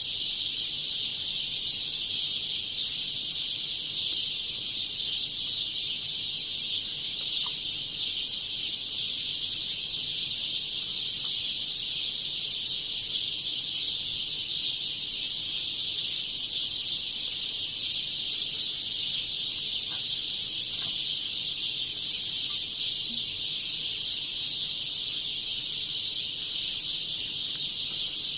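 Many sparrows chirping together in a dense, unbroken chorus, high-pitched and steady, with no single call standing out.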